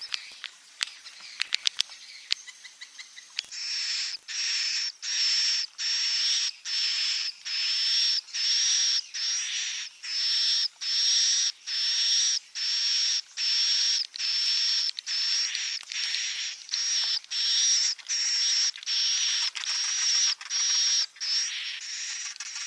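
Recorded swiftlet chick calls: a fast run of short hissing buzzes, about three every two seconds, each with a thin high whistle in it. They start about three and a half seconds in, after a stretch of faint clicking chirps. This is a swiftlet roosting-lure call ('suara inap') of the kind played to draw swiftlets in to roost.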